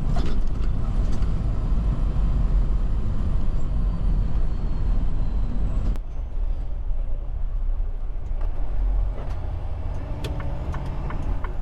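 Inside a semi truck's cab while driving: a steady low rumble of the diesel engine and the road. The higher hiss over it drops away abruptly about six seconds in.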